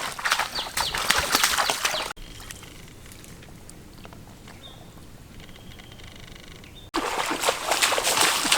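Water splashing and sloshing in shallow water, broken off suddenly at about two seconds by a quieter stretch with a faint high chirp, then splashing again from about seven seconds in.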